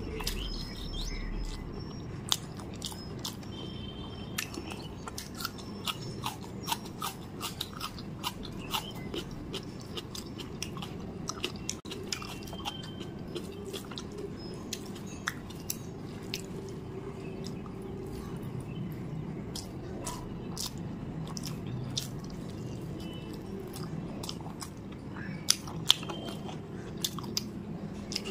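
Close-miked chewing of rice and chicken curry eaten by hand: wet mouth clicks and smacks all through, with a few sharper, louder clicks about two seconds in and again near the end, over a steady low hum.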